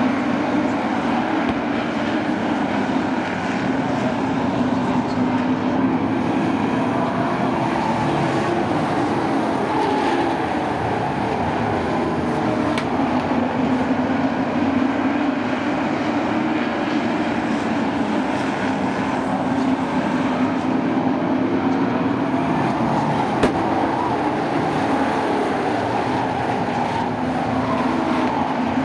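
A field of sport trucks racing on a short oval. Several engines run hard together, their pitch rising and falling as the trucks lap.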